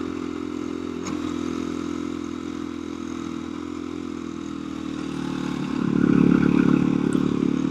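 KTM 350 EXC-F single-cylinder four-stroke dirt bike engine chugging at low revs under load up a steep climb, growing louder about six seconds in.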